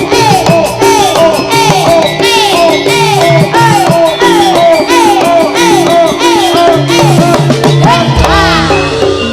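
Live Javanese jaranan (turonggo) ensemble music without singing: drums and gamelan percussion under a lead line of quick repeated notes, each bending down in pitch. A deep low boom comes in about eight seconds in.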